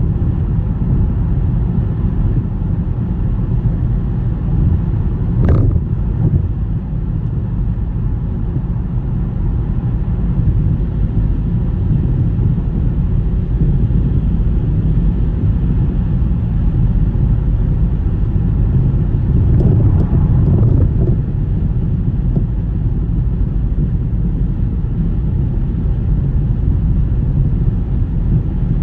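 Car driving on a snowy road: a steady low rumble of road and tyre noise, with a brief sharp sound about five and a half seconds in.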